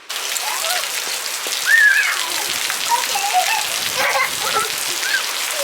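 Heavy rain falling steadily, a dense hiss of drops, with a few short, high-pitched vocal sounds on top of it.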